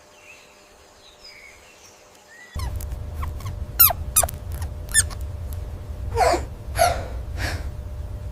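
A small animal squeaking: a run of about seven short, sharp squeaks that fall in pitch, over a steady low rumble, starting abruptly after a few seconds of faint high chirps.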